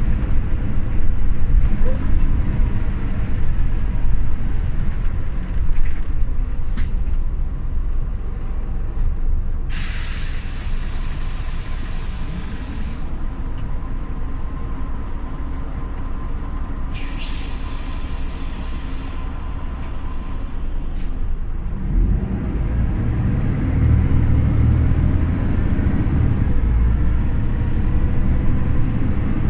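Scania OmniLink city bus's diesel engine running low and settling to a quieter idle. Twice the bus's pneumatic system lets out a loud hiss of compressed air. Then, about two-thirds of the way in, the engine revs up again as the bus pulls away.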